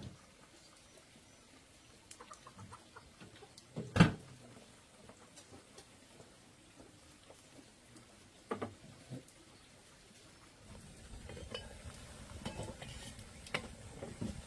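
Chickens clucking, with a single sharp knock about four seconds in and a smaller one near nine seconds, and scattered light clicks.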